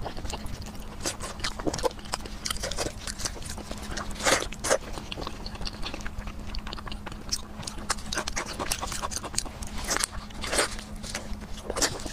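Close-miked eating sounds: wet chewing and lip-smacking of soft, fatty braised pork trotter meat, full of sharp mouth clicks. A few louder smacks come about four and ten seconds in.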